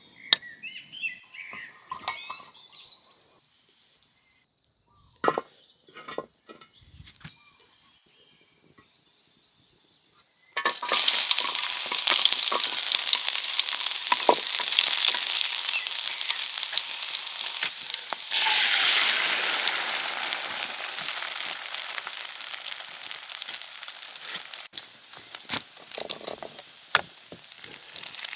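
Food sizzling in hot oil, starting suddenly about ten seconds in and slowly settling, after a few light clinks and clicks.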